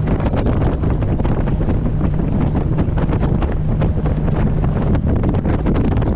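Heavy wind buffeting the microphone of a camera on a moving boat, over the boat's engine droning steadily underneath.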